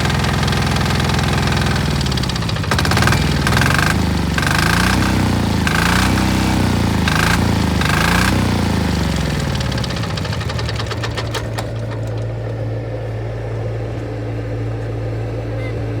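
Old diesel water pump engine running just after a cold start: its speed rises and falls in about six swells, then settles to a steady, lower idle near the end.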